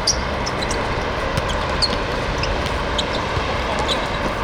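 Steady outdoor background noise from around a seven-a-side football pitch, with many short, sharp high clicks and chirps scattered through it.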